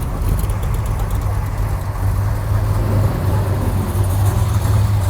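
Classic car engine running as the car rolls slowly past at low speed, a steady low rumble that grows a little louder about two seconds in.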